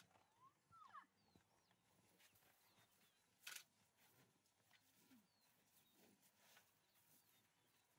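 Near silence in open grassland: faint scattered bird chirps, with two short rustling bursts, one at the start and one about three and a half seconds in.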